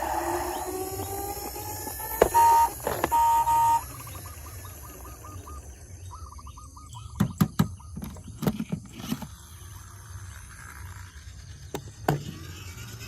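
Electronic sound effects from battery-powered toy vehicles: a steady beep, then short warbling siren-like runs, followed by several plastic knocks.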